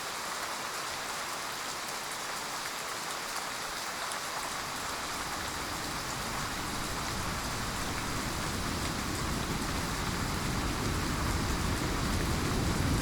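Heavy rain falling in a steady hiss, with a low rumble of thunder building from about five seconds in and growing louder toward the end.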